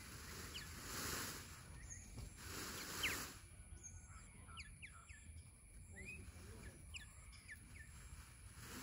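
Small birds chirping with short, quick calls scattered throughout, the sharpest about three seconds in, over a few brief swells of hissing noise.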